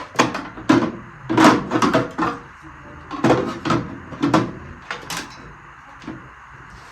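Irregular knocks and clatters, about a dozen sharp hits bunched in the first five seconds, then quieter.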